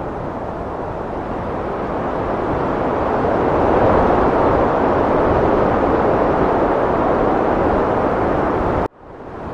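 Heavy wind blowing as a steady rush, swelling over the first few seconds and holding. It cuts out abruptly near the end and swells back in within half a second.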